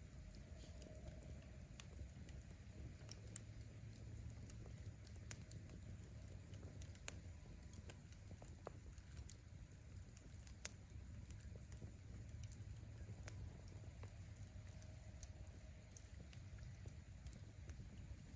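Wood campfire crackling faintly: irregular sharp pops of burning firewood, a few a second, over a low steady rumble.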